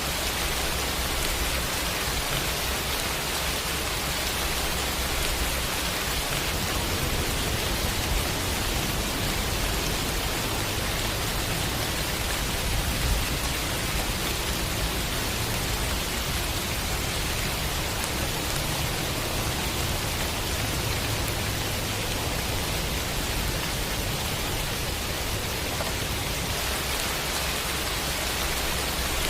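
Steady, dense rain hiss with no individual drops standing out, and a low rumble underneath that swells and eases now and then.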